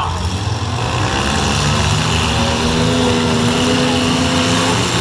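Engines of several modified compact demolition-derby cars running and revving in a steady drone. One engine holds a steady pitch for a couple of seconds, then drops near the end.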